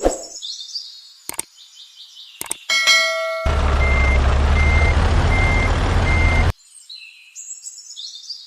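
Truck engine running for about three seconds with a reversing beeper sounding four times at an even pace, cut off abruptly. Before it come a high falling swoosh, two clicks and a short bright chime, and the swoosh returns near the end.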